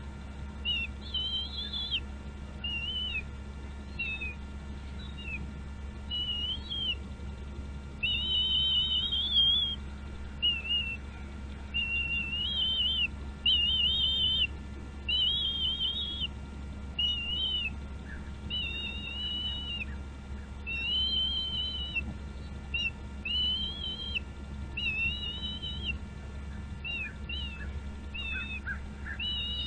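Bald eagle calling: a long series of short, high, wavering whistled calls, about one a second, over a steady low hum.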